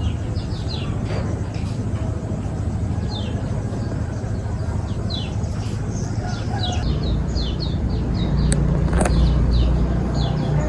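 Small birds chirping in quick short notes over a steady low rumble that grows louder about two-thirds of the way through, with a sharp click or two near the end.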